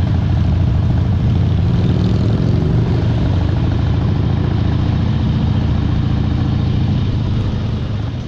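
Motorcycle engine running at a steady pace while riding, a dense low pulsing drone that stays even throughout.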